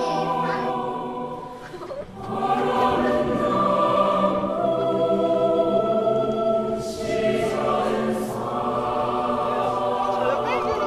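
A group of voices singing a song together in long, held notes, with a short break between phrases about two seconds in.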